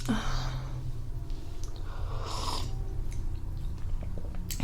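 Close-miked mouth and breath sounds as a drink is tried: two short airy bursts, one at the start and one about two seconds in, and a few small mouth clicks near the end.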